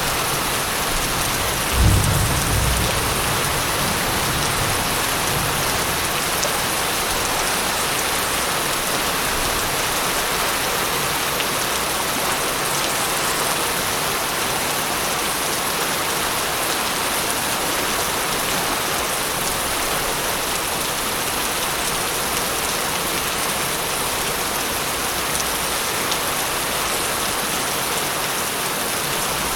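Steady heavy rain falling, with a single low thunderclap about two seconds in that rumbles and fades over a few seconds.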